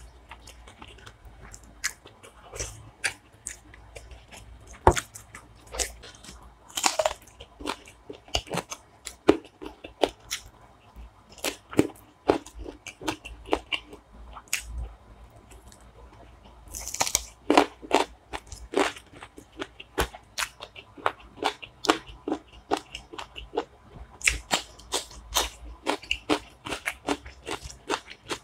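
Close-miked mouth sounds of eating spicy chicken feet, gizzard and liver curry by hand: irregular wet chewing, crunching and mouth clicks, with a few longer, noisier chewing sounds about 7 and 17 seconds in.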